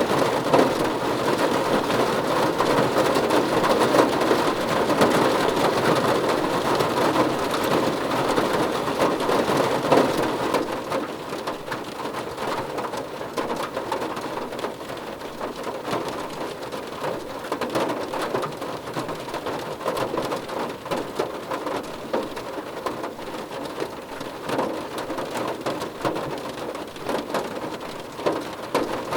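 Rain falling on a car roof, a dense patter of many small drop hits. It is heavier for about the first ten seconds, then eases to a lighter steady fall.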